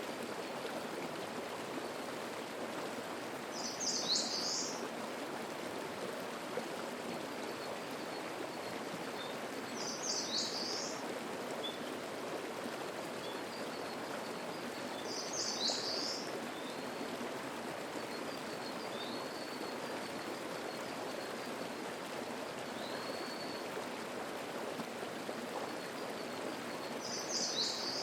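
Mountain stream babbling steadily, with a songbird repeating a short, high song phrase about every six seconds and a few faint thin chirps in between.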